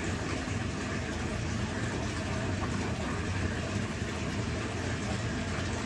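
Tap water running steadily in a bathroom, a constant even rush.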